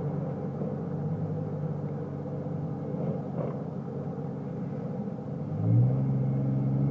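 Chevrolet TrailBlazer exhaust with a Magnaflow muffler, idling steadily with a low rumble. Near the end it rises in pitch and gets louder, then holds at the higher engine speed.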